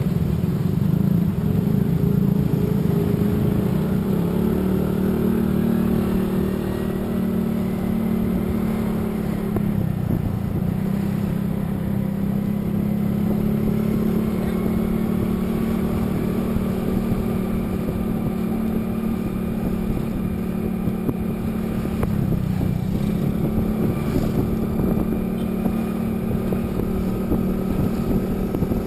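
A road vehicle's engine running steadily at cruising speed, with its hum and road noise. The pitch dips briefly twice, about ten seconds and twenty-two seconds in, then picks up again.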